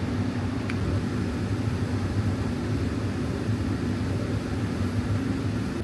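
Steady low hum and rumble of a vehicle running, with no change in pitch.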